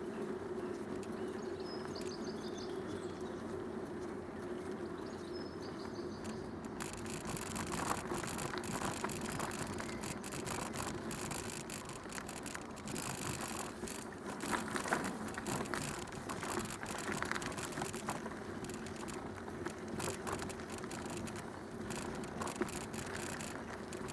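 Bicycle riding along a canal towpath: a steady rolling rumble from the tyres, joined about seven seconds in by a crackling hiss. Faint bird chirps early on.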